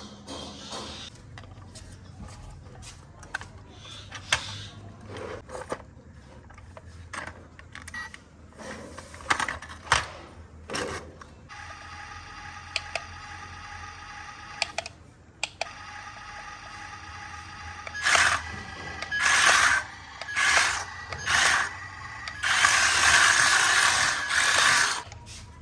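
Small electric motors of a toy RC dump truck whining in short runs, among scattered clicks and knocks from its moving parts. First come the clicks, then a steady whine for a few seconds, and then several loud short runs of whine ending in a longer one.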